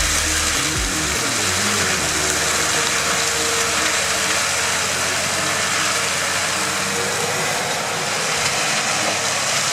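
An engine of heavy machinery running steadily under a dense, even hiss of mechanical noise.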